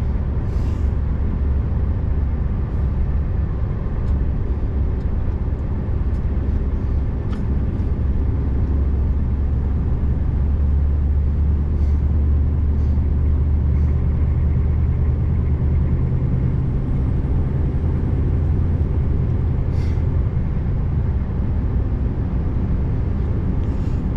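Scania R590's 16-litre V8 diesel engine pulling steadily on the road: a continuous low drone under tyre and road noise, a little stronger in the middle, with a few faint clicks.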